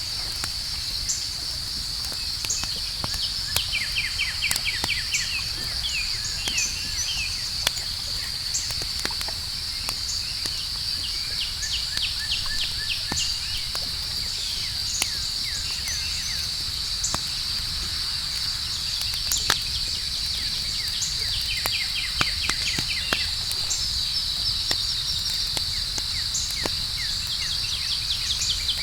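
Campfire crackling with scattered sharp pops and a low rumble of flames, under a steady high chirring of crickets, with short runs of faster chirps joining in now and then.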